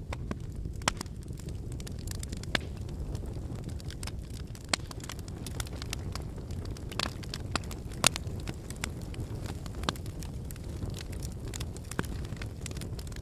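Wood campfire burning: a steady low rumble of flames with irregular sharp crackles and pops from the burning firewood. The loudest pop comes about eight seconds in.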